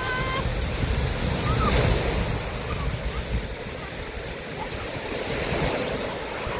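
Sea surf washing onto a beach, with wind buffeting the microphone.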